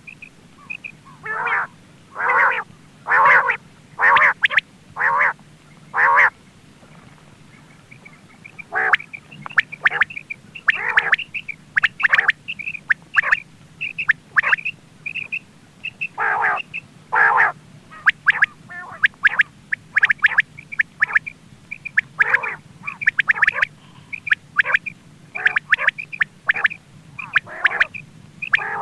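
Quail calling over and over: runs of harsh, nasal call notes about once a second, mixed with short, high piping notes.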